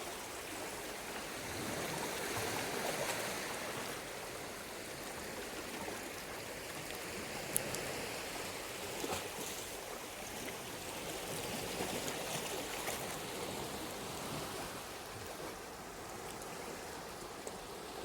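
Seawater washing over and trickling between shore rocks, a steady rush that swells and eases every few seconds. A single sharp click sounds about seven and a half seconds in.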